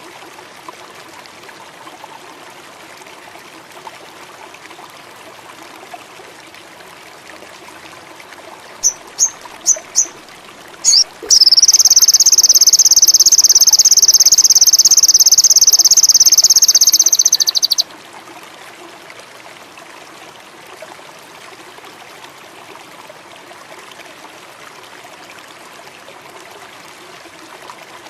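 Running water, like a small stream, with a songbird giving four short high chirps about nine seconds in. A loud, high, continuous trill follows and lasts about six seconds before cutting off sharply.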